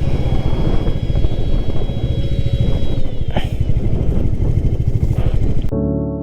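Motorcycle engine running while the bike is ridden, a dense pulsing rumble with a single sharp click about halfway through. It cuts off suddenly near the end, giving way to piano music.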